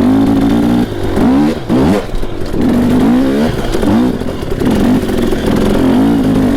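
Dirt bike engine revving up and down in repeated short bursts of throttle, its pitch rising and falling several times.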